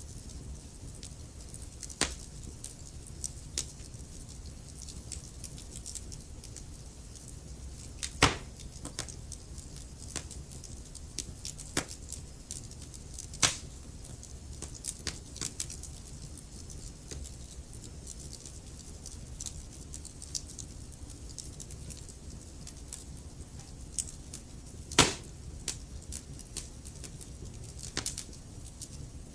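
Wood fire burning in a fireplace: logs crackling with scattered sharp pops over a steady low rumble, the loudest pops about 2, 8, 13 and 25 seconds in.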